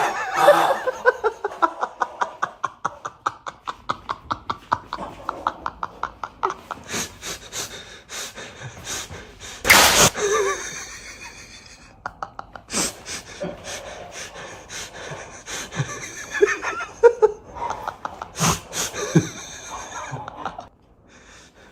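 A person laughing in long runs of quick breathy pulses, with gasps and snorts. A loud sharp burst comes about ten seconds in, and more bursts of laughter follow near the end.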